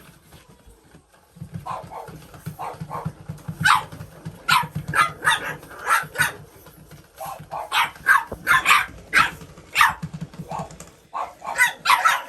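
Puppies barking and yipping in short, high, rapid bursts that grow more frequent and louder towards the end, over a low steady hum for most of the stretch.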